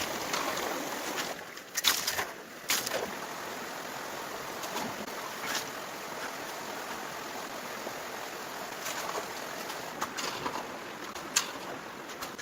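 Steady rush of running water, with a few scattered sharp clicks and knocks, the loudest about two seconds in and near the end.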